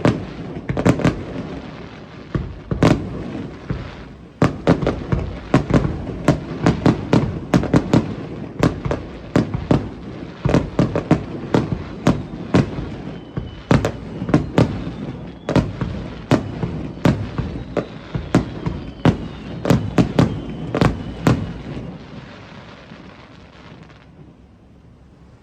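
Fireworks display: rapid, overlapping bangs of bursting shells, many a second. They thin out and die away about 22 seconds in.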